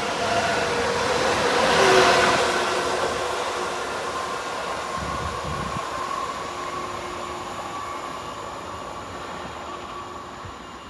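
A train passing close by, loudest about two seconds in and then fading slowly as it moves away, with a tonal whine that drops in pitch as it goes past.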